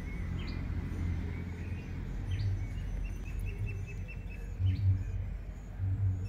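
Small birds chirping in the background: a few short rising chirps and a quick run of repeated high notes, over a steady low rumble with a few dull bumps.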